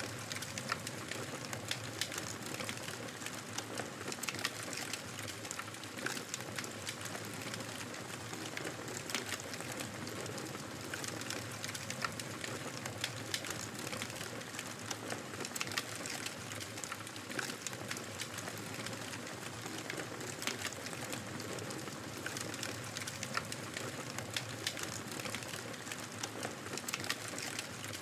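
Fire crackling in a fireplace: a steady hiss with frequent small, sharp pops scattered irregularly throughout.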